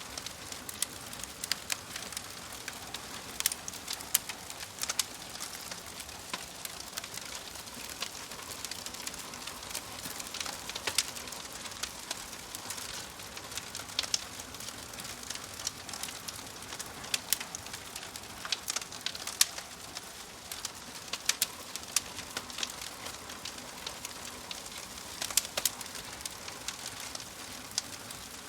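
Wood fire crackling in a fireplace: a steady hiss with frequent sharp, irregular pops and snaps from the burning logs.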